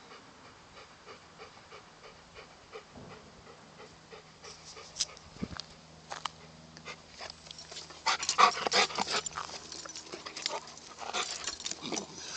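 Golden retriever close to the microphone, panting and whimpering softly, louder and denser from about eight seconds in.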